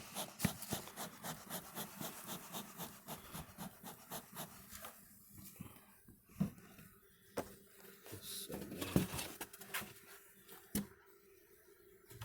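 Wooden beehive parts and a syrup feeder being handled: a quick run of small clicks and taps, then scattered knocks. A faint steady hum of honeybees comes in about six seconds in.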